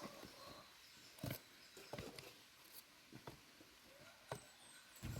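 Quiet background with a handful of soft, irregularly spaced knocks and taps, the loudest about a second in, and a faint high chirp about four seconds in.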